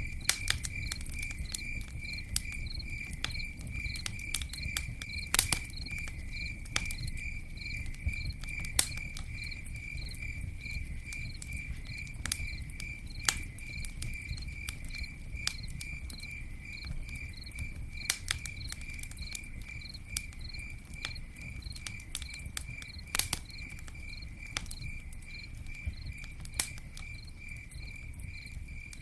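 Campfire crackling, with irregular sharp pops. Under it a cricket chirps steadily in a high-pitched trill of about three chirps a second, over a low rumble.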